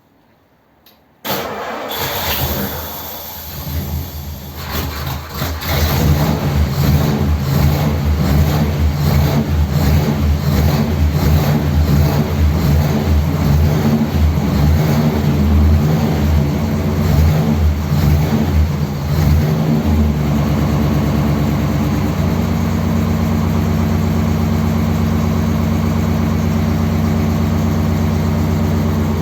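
1957 Ford Thunderbird's Y-block V8 cranking and catching about a second in, then running unevenly with the revs rising and falling, and settling to a steady idle about twenty seconds in, on fresh oil and a new oil filter.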